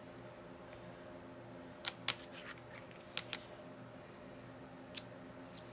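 A few light clicks and taps from craft items being handled on a work table: two about two seconds in, two more a second later and one near the end. A steady low hum runs underneath.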